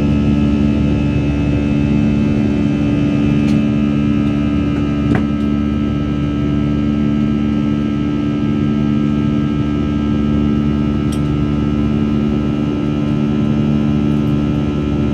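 Airliner's jet engines running with a steady drone, heard from inside the passenger cabin: a low constant hum under higher steady whining tones and rushing air. A short click about five seconds in.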